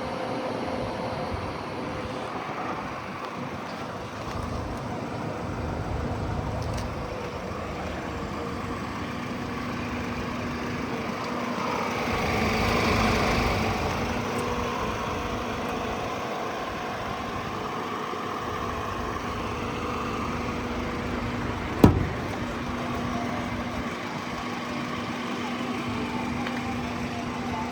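A vehicle engine idling steadily. A swell rises and fades about 12 to 14 seconds in, and a single sharp knock comes about 22 seconds in.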